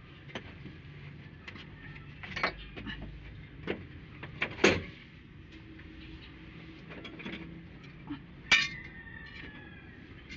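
Metal hand tools clinking and knocking against engine parts: a handful of scattered sharp clinks, the loudest about halfway through, and another near the end that rings briefly.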